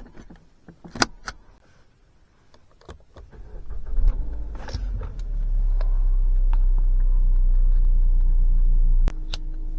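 A few clicks and a rattle of keys, then a car engine is started about four seconds in and settles into a steady idle. Its sound drops suddenly near the end.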